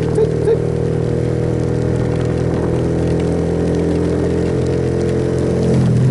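Suzuki Yes motorcycle's single-cylinder engine running steadily under way, getting louder near the end.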